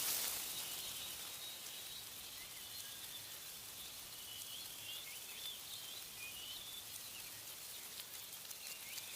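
Wind rustling through tree leaves, a gust easing off in the first second, with small birds chirping in short repeated notes.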